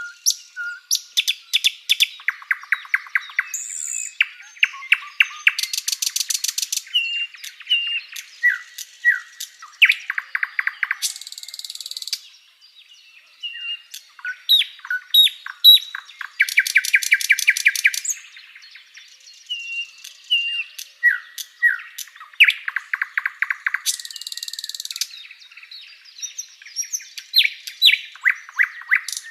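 Sikatan londo song: a busy mix of short chirps, down-slurred whistles and fast buzzy trills, with a harsh high rattle about six seconds in and again near seventeen seconds. The same sequence comes round about every eleven to twelve seconds, as in a looped tutoring recording.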